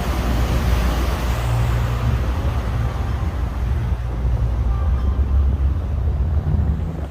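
Boat motor running steadily under way, with wind rumbling on the microphone.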